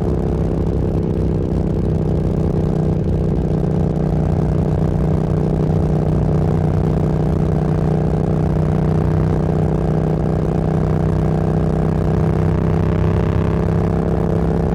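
Motorcycle engine running at a steady cruising speed, heard from the rider's seat: an even, unbroken drone that holds its pitch.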